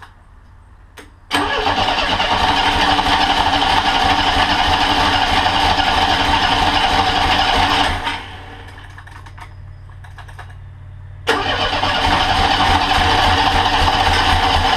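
Monster trike engine starting about a second in on a freshly rebuilt carburetor whose float has just been lowered to stop it flooding. It runs loud and fast, drops to a quieter, slower run for about three seconds, then suddenly comes back up loud.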